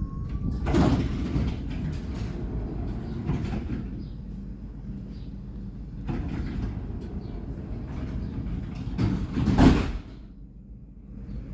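Alstom NGT8D low-floor tram heard from inside, a steady low running rumble with two loud short surges of noise, about a second in and again near the end, then a brief quieter spell.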